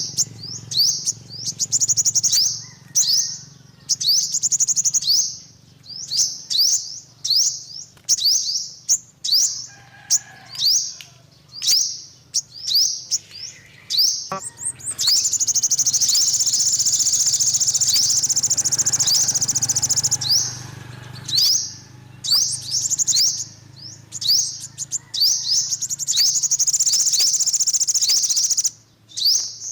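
Yellow-bellied sunbird singing: a string of high, quick down-slurred chirps about two a second, running together into a long, fast twittering trill in the middle and again near the end.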